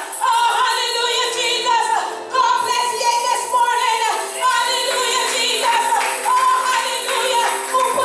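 Gospel singing with music: voices holding long, wavering notes, phrase after phrase.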